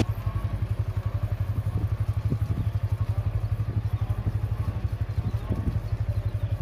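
A vehicle engine running steadily, a low throb with a fast, even pulse.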